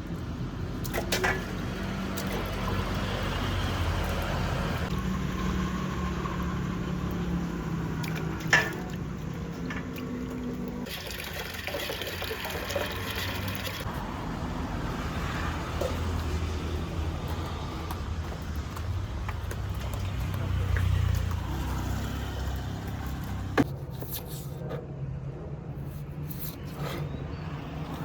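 Water running and pouring, with a few sharp clinks.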